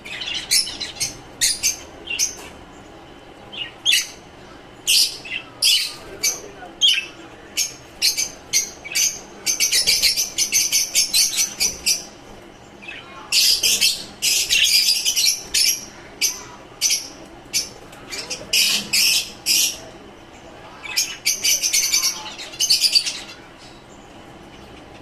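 Lovebirds and finches chirping: a string of short, high calls, broken several times by bouts of rapid chattering that last a second or two.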